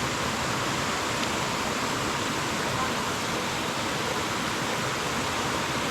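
Water rushing steadily over the rocks of a forest stream's rapids, a constant even hiss.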